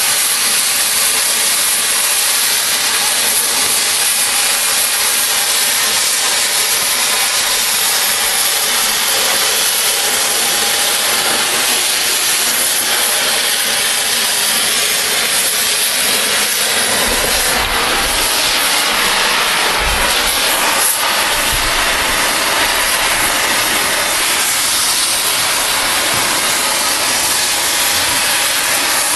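Oxy-fuel cutting torch hissing steadily as it flame-cuts through steel railroad rail. A little past halfway some low rumbling joins in, with a single sharp click.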